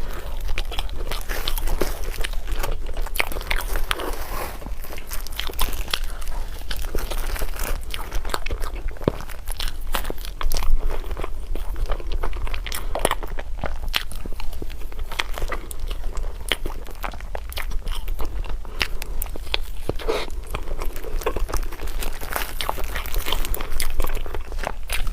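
A person biting and chewing food close to the microphone, with many small sharp crunches and clicks, over a steady low hum.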